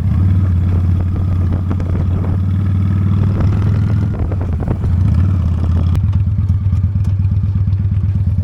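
Honda Steed V-twin motorcycle engine running steadily under way, with wind noise on the microphone. About six seconds in the wind hiss fades and the engine's even beat comes through more plainly.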